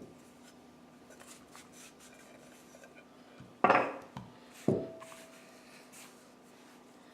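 Dumpling dough being turned out of a mixing bowl onto the counter: three short knocks of the bowl and dough a little over halfway through, the last with a brief ring, over a faint steady hum.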